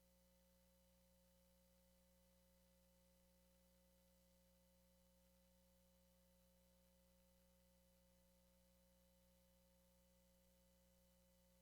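Near silence: a faint, unchanging hum made of a few steady tones over a low hiss, with no events.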